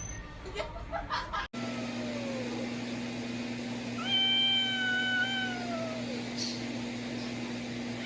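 Domestic cat meowing: one long, drawn-out meow about four seconds in that drops in pitch at the end, after a fainter short call, over a steady low hum.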